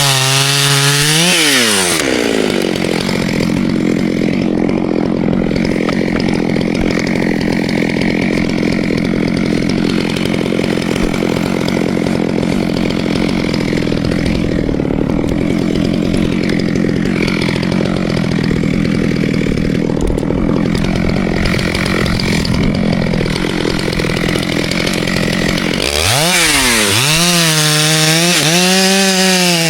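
Petrol chainsaw revving, then running at a steady, lower pitch under load as it cuts through ash wood for most of the time, then revving up and down again near the end.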